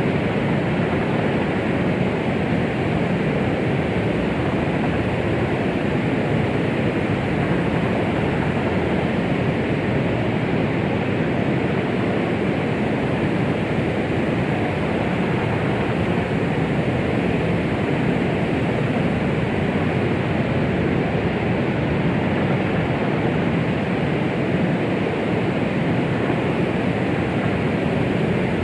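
Steady, unchanging low-pitched rushing noise, a womb-sound style white noise for soothing a baby, heavier in the lows than in the highs.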